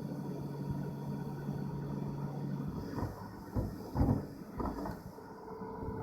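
Robot vacuum running with a steady motor hum, then its bumper knocking against a wall several times in quick succession from about three seconds in.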